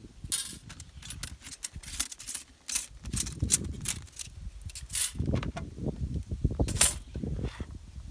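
Irregular sharp clicks and clatters over low knocks and thuds, as the metal parts of a homemade assemble-it-yourself fire pit are handled.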